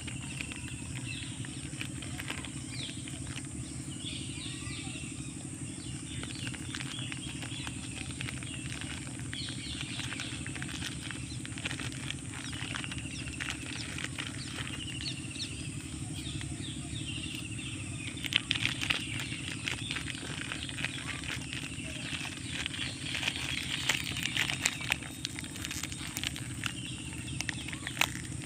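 Outdoor ambience with birds calling in short, falling chirps over a steady hum, and a busy patter of small clicks in the second half.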